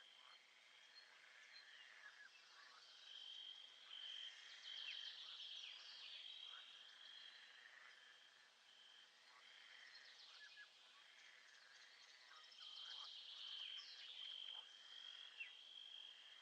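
Faint nature soundscape: a high, pulsing trill of calling frogs or insects with scattered short chirps, the chorus swelling twice.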